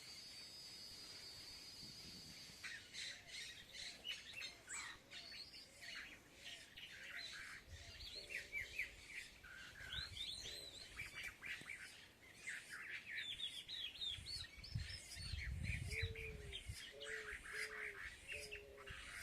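A flock of small birds chirping and twittering, with many short, quick calls overlapping. Near the end a lower call repeats about four times.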